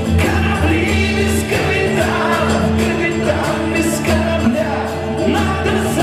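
Live rock band playing an instrumental passage between sung lines, with a steady heavy bass and regular cymbal hits.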